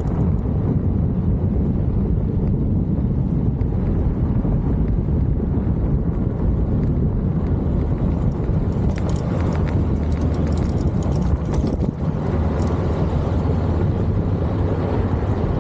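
A vehicle engine running steadily under heavy wind noise on the microphone.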